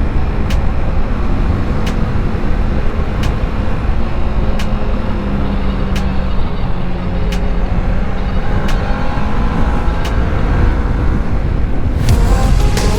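Motorcycle riding on the road: the engine runs under wind and road noise, its pitch shifting in the second half, with a faint tick about every second and a half. Music comes in near the end.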